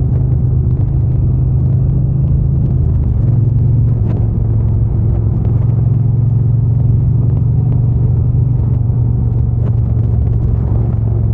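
Triumph Bonneville T120's 1200 cc parallel-twin engine and exhaust running steadily while riding, a low steady engine note whose pitch drops a little about three seconds in.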